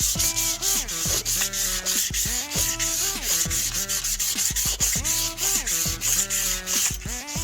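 Sandpaper rubbing on an oxidized aluminium motorcycle alloy wheel: 600-grit wet-and-dry paper in quick strokes, taking the oxidation off. Under it plays electronic music with a steady beat and gliding synth notes.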